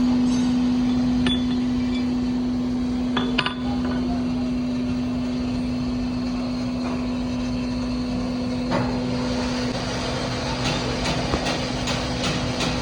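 Broaching machine working a cast Spicer universal-joint yoke: a steady machine hum that drops in level near the end, with a few sharp metallic clinks.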